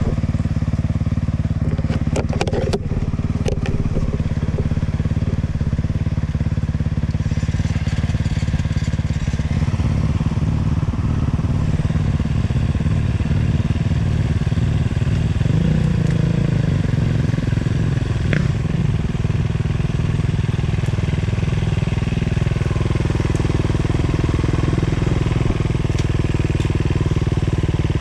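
Sherco 300 two-stroke enduro motorcycle engine running steadily, with a brief swell in revs about midway. A few sharp clicks and knocks in the first few seconds.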